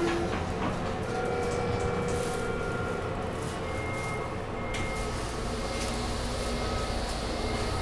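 Subway train rumbling in the station, with a deep low rumble and rising hiss that come up about five seconds in and hold steady.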